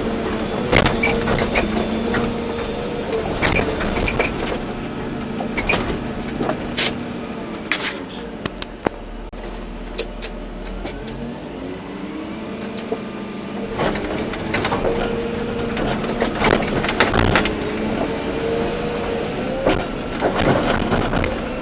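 Volvo EC240B excavator's diesel engine running under load, with scattered knocks and clatters from the bucket and soil. The engine speed drops about halfway through, then rises back up.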